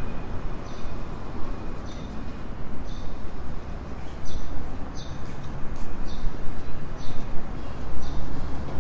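A small bird chirping over and over, short high chirps roughly once a second, over a steady low rumble of street noise.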